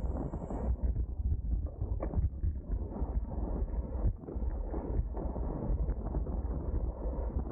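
Wind buffeting the microphone of a camera riding on a road bike at race speed, a heavy, constantly fluctuating rumble over tyre and road noise, with a sharp click about two seconds in.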